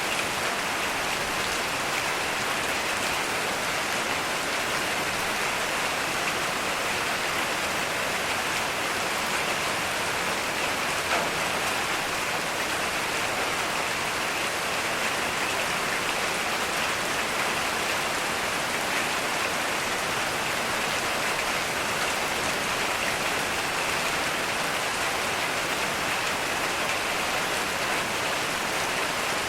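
Heavy rain falling steadily, a dense, even hiss of drops hitting surfaces, with no thunder.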